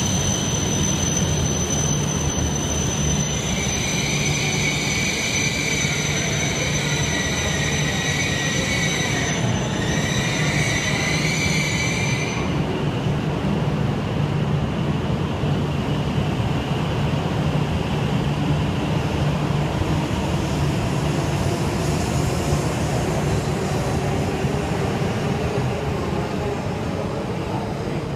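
E6 series Shinkansen train moving slowly alongside the platform: an electric whine of several steady high tones that cuts off about twelve seconds in, over a continuous low running rumble.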